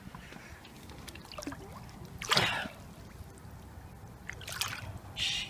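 Short splashes and dribbling of water, about two seconds in and again twice near the end, as a bass is released back into the river.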